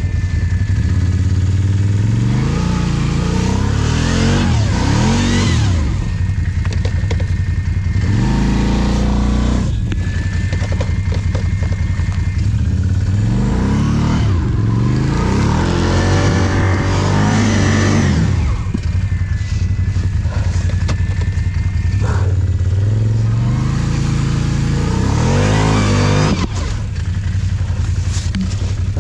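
ATV engine revving up and easing off again and again, in about four separate surges under load.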